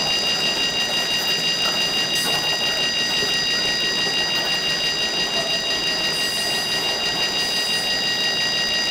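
Freight train cars rolling past in a steady rumble and clatter, with a steady high-pitched tone held over it throughout.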